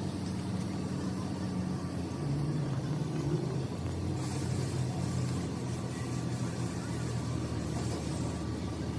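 An engine running steadily with a low hum that shifts slightly in pitch about two seconds in, with a hiss joining from about four to eight seconds in.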